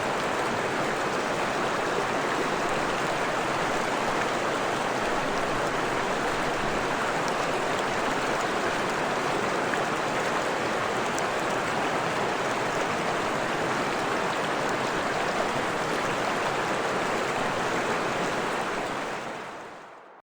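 Forest stream running over rocks, a steady rush of flowing water that fades out near the end.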